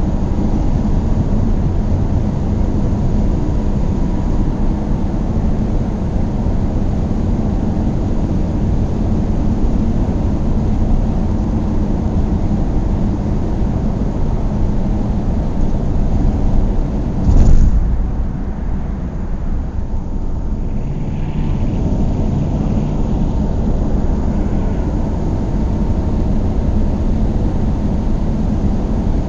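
A car driving at speed, with a steady rumble of engine and road noise. About two-thirds of the way through there is a short, loud thump, and the rumble is a little quieter for a few seconds afterwards.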